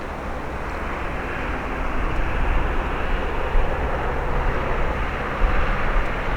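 Jet noise of an Embraer ERJ-170's turbofan engines on approach, a steady rushing sound that grows slowly louder, with wind buffeting the microphone.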